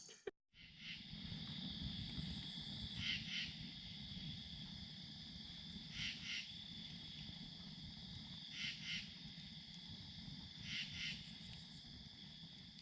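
Faint chorus of night insects: a steady high trill, with a pair of louder chirps about every two and a half seconds.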